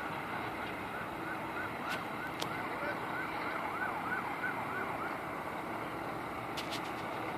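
Distant emergency-vehicle siren in a fast yelp, rising and falling about twice a second for about five seconds before fading out, over a steady background rumble.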